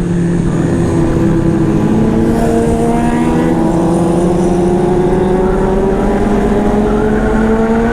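Honda CBR500R motorcycle engine running under steady acceleration, its pitch rising slowly over several seconds, with wind rushing over the microphone.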